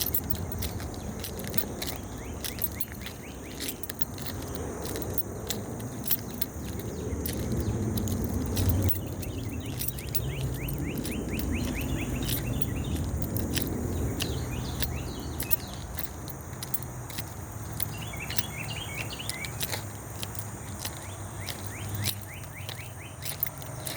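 Footsteps crunching on the gravel ballast of a railway track, as a string of short clicks, over a steady low background rumble. Birds chirp now and then, most clearly in the middle and again near the end.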